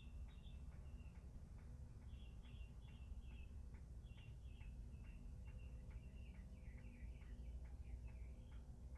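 Faint, rapid chirping from small animals, several short high calls a second, over a low steady rumble.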